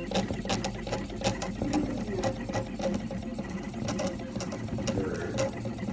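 BACHIN XYZ pen plotter running: its motors whir steadily while sharp clicks come irregularly, about two a second.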